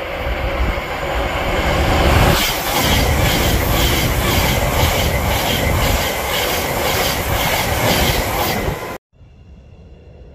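Thameslink Class 700 electric multiple unit approaching and running past close by at speed. Its wheels clatter rhythmically, about twice a second, from a couple of seconds in. The sound cuts off abruptly near the end, leaving a much quieter background.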